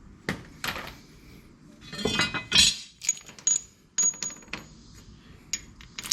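Metal clinking and clattering as removed lawn mower blades and their hardware are handled. There is a louder scrape about two seconds in, then several sharp, ringing clinks.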